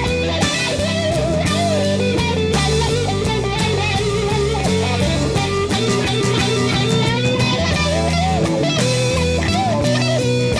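Rock song instrumental break: a lead electric guitar solo with bent, wavering notes over a steady bass and chord backing.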